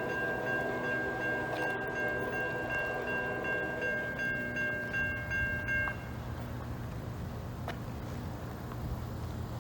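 A steady electronic chime of several tones sounding together, cutting off suddenly about six seconds in, over a low rumble.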